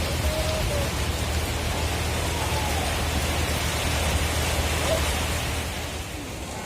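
Heavy rain falling steadily, a dense even hiss, over a steady low hum. It eases slightly near the end.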